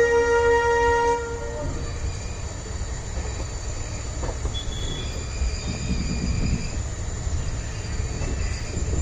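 A WDP4D diesel locomotive's multi-tone horn sounds and cuts off about a second in. After that comes the low rumble of the coaches rolling along the rails, heard from aboard the train.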